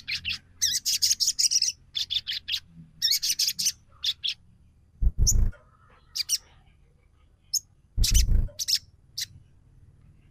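Sogon trotol (sunbird) lure call: rapid strings of high, sharp chirps in short bursts with gaps between them. Two dull thumps sound about 5 and 8 seconds in.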